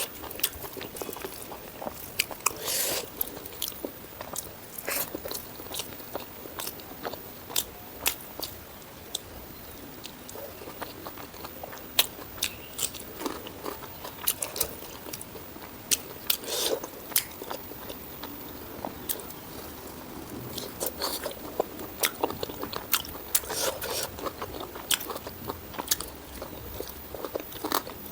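Close-miked eating: irregular crunches, bites and wet chewing of spicy pork ribs and rice, with sharp clicking sounds scattered throughout.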